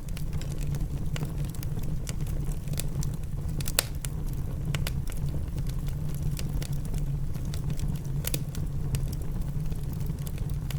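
Wood fire crackling in a fireplace, with scattered sharp pops over a steady low rumble and the patter of rain.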